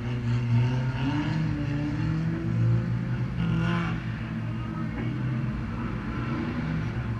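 Race car engine running with a steady low drone, its note rising slowly between about one and three seconds in.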